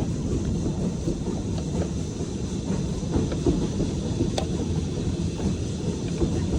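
Steam-hauled heritage train running on the track, heard as a steady low rumble with scattered light clicks from the wheels and rails. One sharper click comes about four seconds in.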